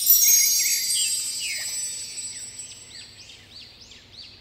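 A bright, shimmering chime sound that rings out loudest about a second in and slowly fades away, with a run of short high chirps in the second half.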